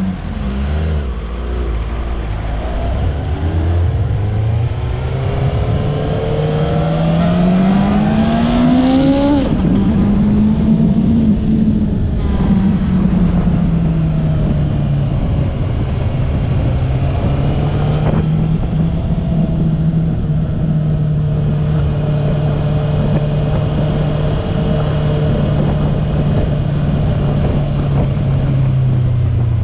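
Suzuki GSR600's inline-four engine pulling away from a standstill. The revs climb steadily for about nine seconds, drop at a gear change, climb briefly again, then settle into a steady cruise. Wind rushes over the microphone throughout.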